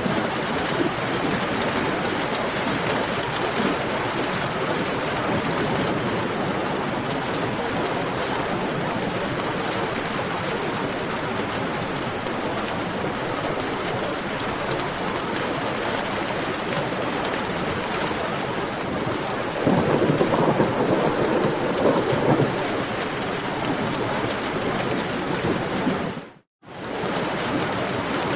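Heavy rain falling steadily, with a louder rumble of thunder about twenty seconds in. Near the end the sound cuts out completely for a moment, then the rain comes back, typical of a splice in a looped recording.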